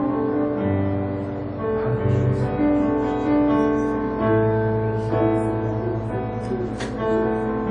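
Soft instrumental music of held piano or keyboard chords, changing every second or two.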